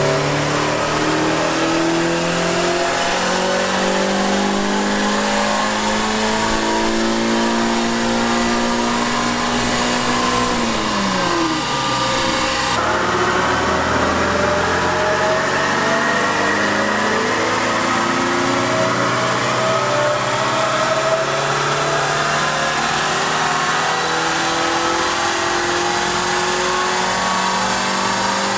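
Renault Clio 197's four-cylinder engine being run up on a rolling-road dyno, its pitch climbing steadily; the revs drop away sharply about ten to eleven seconds in, then climb steadily again. This is a power run to see whether a new battery cures its low power output.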